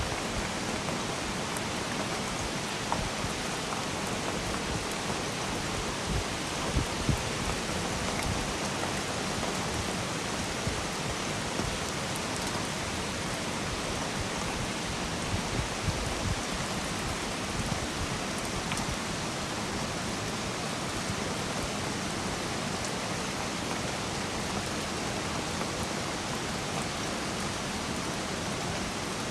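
Steady rain, a dense even hiss with scattered heavier drops striking nearby, and a few louder thuds about a quarter and halfway through.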